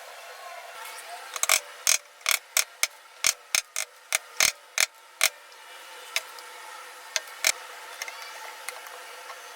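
A quick run of sharp clicks or taps, about a dozen over four seconds, then a few scattered ones, over a faint steady hiss.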